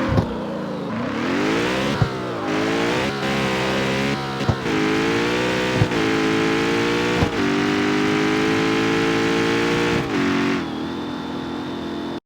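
Jaguar F-Type's supercharged V8 accelerating hard through the gears, the engine note climbing again and again, with a sharp crack at each of several gear changes. It then holds a steady note and eases off near the end.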